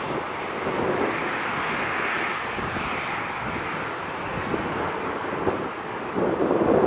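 Aircraft engine noise, a steady rushing sound, with gusts of wind buffeting the microphone near the end.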